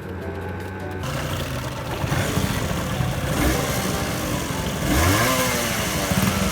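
A small motorcycle engine starts running about a second in and is revved up and back down twice, with background music underneath.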